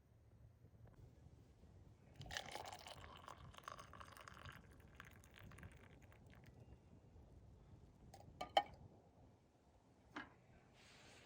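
Liquid being poured for about two seconds, followed by a few sharp clicks, the loudest about eight and a half seconds in.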